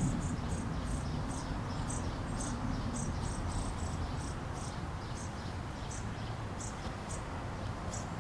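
Crickets chirping outdoors: short high chirps repeating unevenly, about two a second, over a low steady background rumble.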